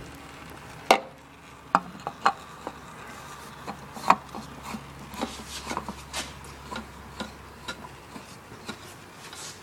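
Irregular light clicks and taps with some rubbing, from hands handling the oil filter and tools during an oil change.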